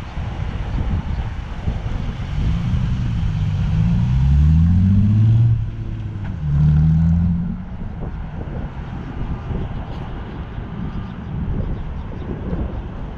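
2006 Ford Mustang's 4.0-litre V6 through an SLP Power-Flo aftermarket exhaust, revving twice over its low rumble. The first rev climbs in pitch over about three seconds and breaks off. A shorter second rev follows, then the engine settles back to a rumble.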